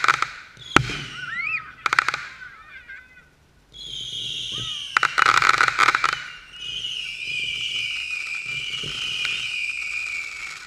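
Consumer fireworks going off: three sharp bangs in the first two seconds. After a short lull comes a long shrill hiss that falls slowly in pitch, with a dense burst of crackling reports about five seconds in.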